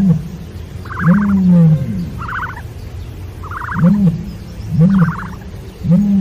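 Repeated animal calls: low calls that rise and fall, alternating with short, rapid, higher-pitched rattling bursts, about one call a second.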